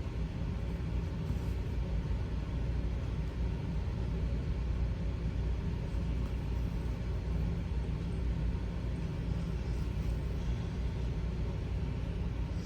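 Steady low rumble of background noise that does not change, with a few faint soft rustles over it.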